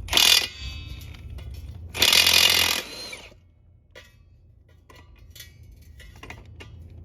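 Impact wrench hammering on a truck wheel's lug nuts to break them loose, in two bursts: a short one right at the start and a longer one of nearly a second about two seconds in. A few light clicks follow in the quieter stretch after it.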